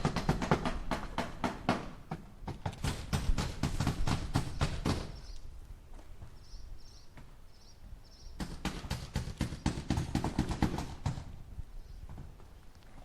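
Hammer driving nails into wood in quick runs of blows, about six a second. There are three bursts, with a pause of about three seconds in the middle that holds only a few faint high chirps.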